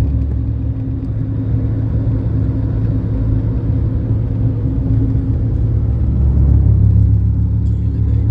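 A motor vehicle running steadily, with a constant low engine and road rumble, growing slightly louder about six seconds in.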